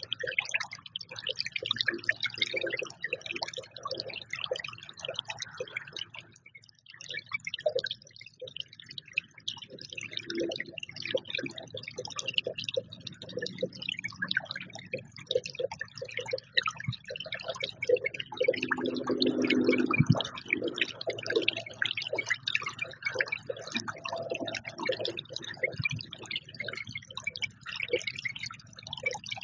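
Birds feeding at a feeder: a dense patter of small ticks and short chirps from pecking and calling.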